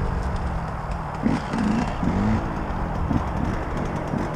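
Dirt bike engine running low and steady as a rumble, with a few short rises and falls in pitch between one and two and a half seconds in.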